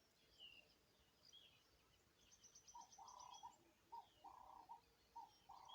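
Faint mixed birdsong. A wild dove coos in a run of short, lower notes through the second half, over scattered high chirps and a brief quick high trill from small birds.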